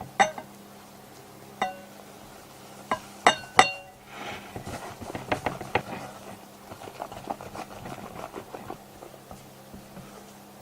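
A utensil striking a mixing bowl five times with sharp ringing clinks, the loudest a little over three seconds in, then a run of quicker, lighter clicks and scrapes of utensil against bowl.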